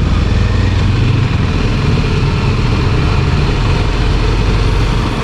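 Kawasaki Ninja motorcycle engine running steadily as the bike is ridden, with wind rushing over the microphone.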